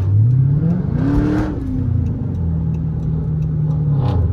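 Chrysler 300's engine revved: the pitch climbs quickly and falls back within the first two seconds, then it is held at a steady raised speed before dropping back to idle near the end.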